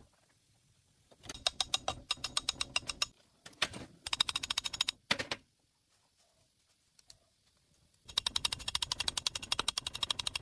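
Rapid, even mechanical clicking, about ten clicks a second over a low rumble, in three bursts of two seconds or more.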